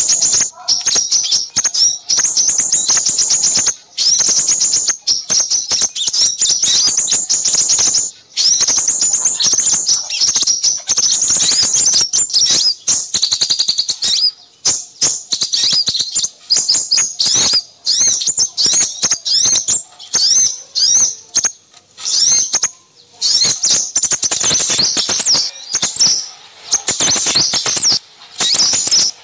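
Dense, fast, high-pitched chirping and twittering of several small birds calling at once, with only brief pauses. This is a bird-trapping lure recording of noisy small-bird calls, used to attract crimson sunbirds.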